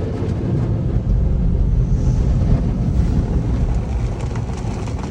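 Automatic tunnel car wash running around the car: a steady low rumble and rush of rotating brushes and water spray, heard muffled from inside the car.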